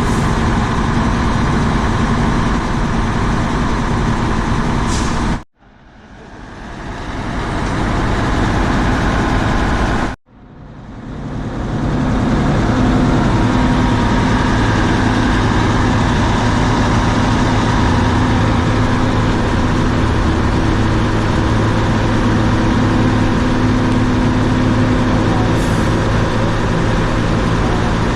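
Heavy diesel engine running steadily with a deep hum. The sound cuts out abruptly twice in the first ten seconds and fades back in each time. A short high hiss comes about five seconds in and again near the end.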